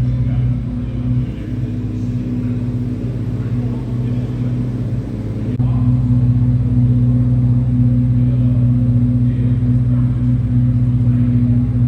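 A motor vehicle running steadily with a low, even drone. The sound changes abruptly about five and a half seconds in, then carries on louder.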